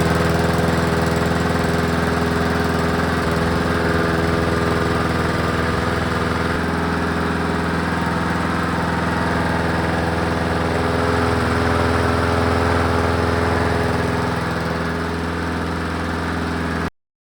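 Craftsman 5.5 HP lawn mower's Briggs & Stratton single-cylinder engine running at a steady speed after a carburettor cleaning, not hunting up and down. The sound cuts off suddenly near the end.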